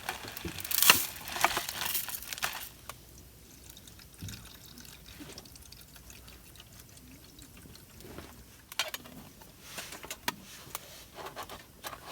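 Liquid poured for a couple of seconds near the start, then quieter scattered clicks and handling noises.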